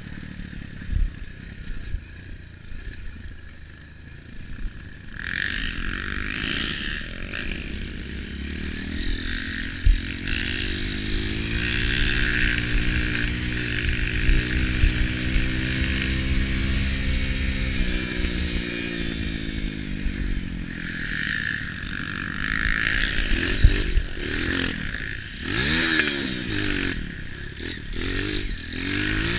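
Trail motorcycle engines revving off-road, pitch climbing and falling as the bikes accelerate and ease off, with a few sharp knocks in the last few seconds.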